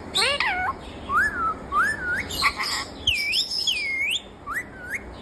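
Pet green parrot whistling a string of short rising and dipping whistles, with a brief rough squawk about halfway through.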